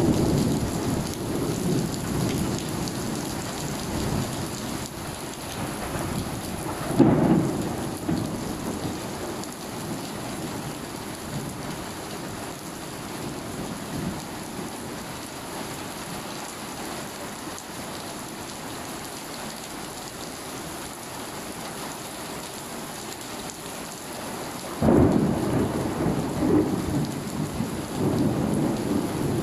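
Steady downpour of rain, with rolls of low thunder: one loud rumble about a quarter of the way in, and a longer, louder one near the end.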